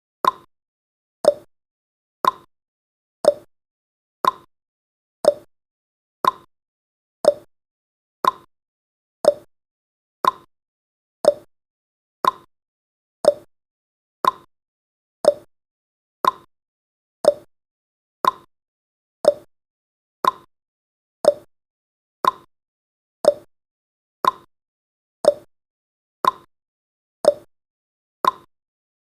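Clock-style ticking from a countdown timer sound effect: one short tick every second, alternating higher and lower in pitch like a tick-tock.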